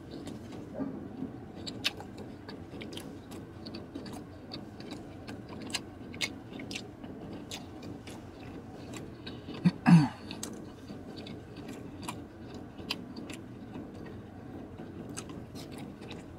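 Close-up chewing of tender ribeye steak: wet mouth noises and small clicks throughout, with one short, loud vocal sound from the eater about ten seconds in.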